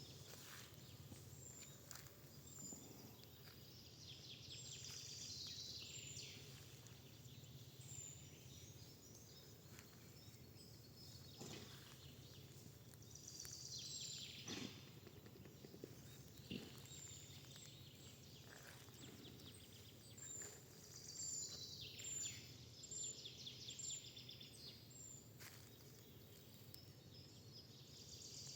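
Faint birdsong: a songbird's falling trills repeated every several seconds, with short high chirps between them, over a steady low hum and a few soft clicks.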